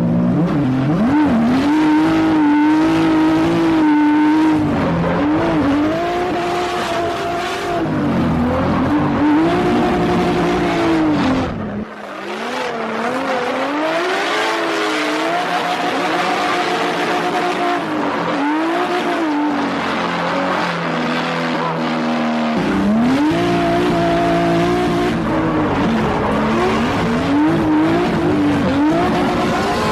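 Drift car engine revving hard, its pitch climbing and falling over and over through gear changes and throttle, with tyre squeal from the car sliding.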